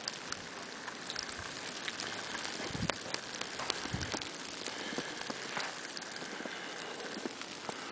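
Heavy, wind-driven snow falling and pattering: a steady hiss sprinkled with many small ticks, with a couple of soft thumps about three and four seconds in.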